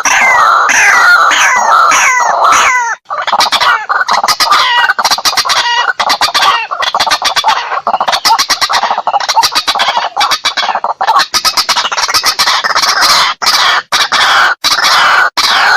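White-breasted waterhens calling loudly with harsh, repeated croaking "kruak" notes, used as a lure call. For about the first three seconds the notes fall in pitch one after another; after that they run on as fast, clucking pulses with short breaks.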